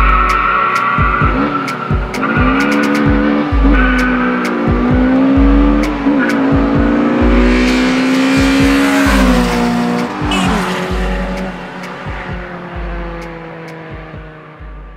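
Two Honda four-cylinder engines, an H22 in an EG Civic and a D16 in a Del Sol, revving hard at full throttle in a street drag race, pitch climbing through each gear and dropping back at every upshift. The sound fades away over the last few seconds as the cars pull off into the distance.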